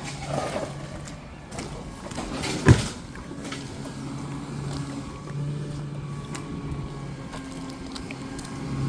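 Garbage truck engine running steadily, with one sharp loud bang just under three seconds in.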